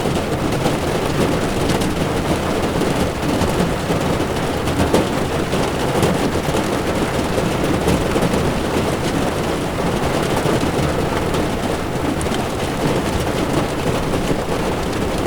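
Heavy rain falling on a car's windshield and body, with the tyres running on a wet road beneath it: a steady, dense rush with a deep rumble and now and then a sharper drop tick.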